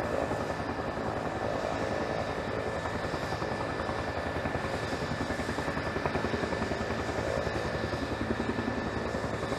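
Bell turbine helicopter running steadily: a fast, even rotor beat under a constant high turbine whine.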